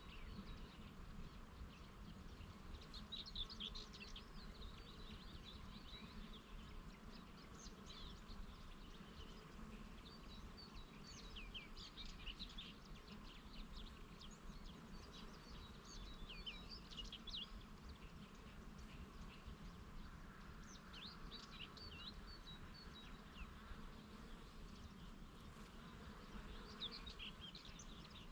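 Bees buzzing in a steady faint hum among flowers, with small birds chirping in short bursts every few seconds in the background.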